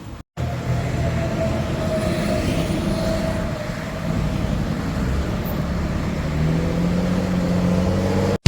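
A motor vehicle running, a steady engine hum and road noise, with a low tone coming in higher about six and a half seconds in.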